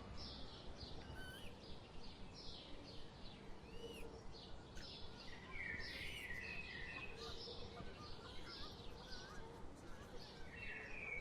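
Small birds chirping and calling, many short notes overlapping throughout, over steady background noise.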